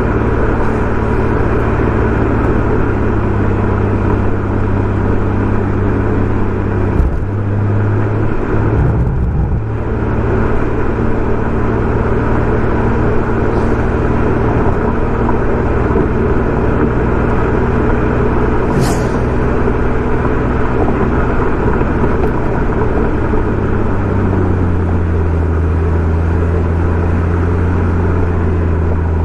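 BMW M140i's turbocharged 3.0-litre straight-six, breathing through an aftermarket Remus exhaust, running at a steady drone under road and wind noise. The engine note dips briefly about seven seconds in, then settles to a lower steady pitch about 24 seconds in.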